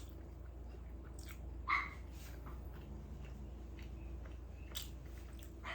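Quiet chewing and mouth clicks over a steady low hum, with one short, faint dog bark or yelp about one and a half seconds in.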